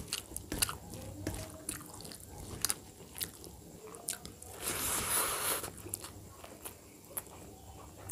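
Close-up eating sounds of rice and dal eaten by hand: a steady run of wet clicks and smacks of chewing, with soft squelches of fingers working rice on the plate. Just before five seconds in, a hissing rush of noise lasts about a second and is the loudest sound.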